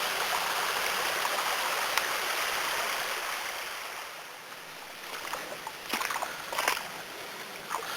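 A spring-fed creek runs over rocks and small falls with a steady rush. About halfway through the rush fades, and a few short knocks sound near the end.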